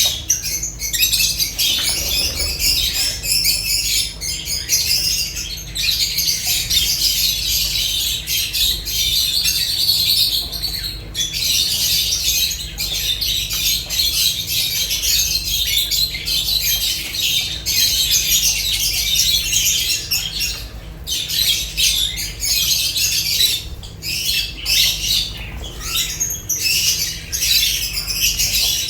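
Lovebirds chattering and squawking without pause, a dense high-pitched flock chatter.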